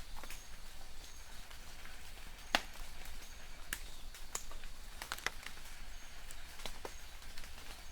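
Light rain in a forest: a soft steady hiss with irregular sharp drips of drops striking close by, the loudest about two and a half seconds in. Faint short high chirps of distant birds recur through it.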